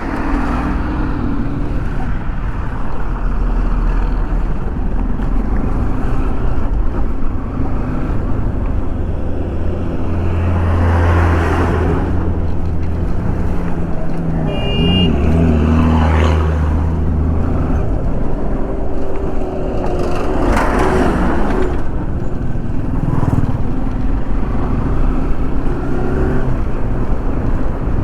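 A road vehicle running on the move, with a steady low engine rumble and rushing wind noise that swells and falls on the microphone. A brief high beep sounds a little past halfway.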